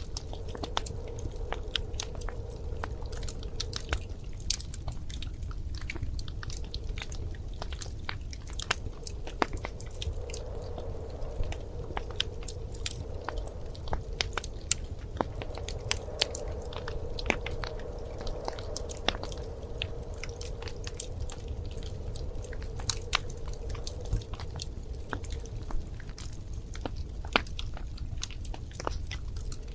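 Wood fire burning in a fireplace, crackling with frequent irregular sharp pops and snaps over a low steady rumble.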